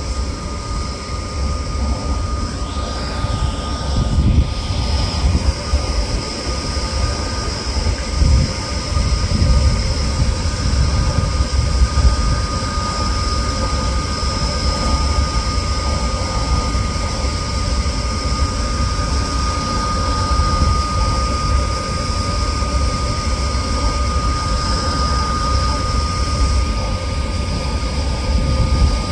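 Electric trains approaching a station platform: a steady low rumble that swells a few times, with a single high-pitched whine held throughout.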